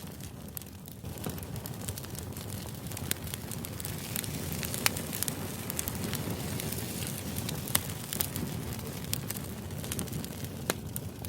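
White-noise background: a steady hiss broken by irregular sharp clicks and crackles, several of them standing out, about five seconds in and again near eight seconds.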